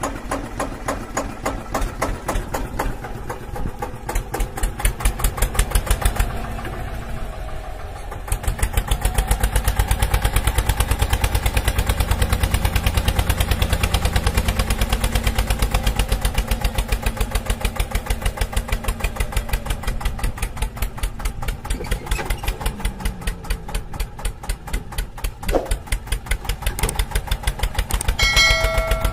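Small belt-driven homemade miniature chaff cutter running, chopping grass stalks with a rapid, even clatter that grows louder about eight seconds in. A short chime sounds near the end.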